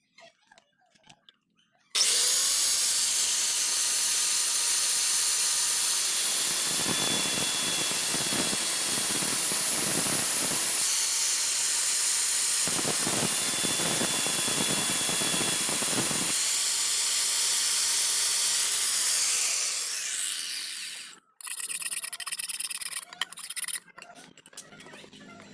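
Electric power tool starting abruptly and running steadily for about eighteen seconds, with two spells of heavier, grittier sound as it bites into the steel saw blade. It then winds down and stops, followed by a few scattered knocks.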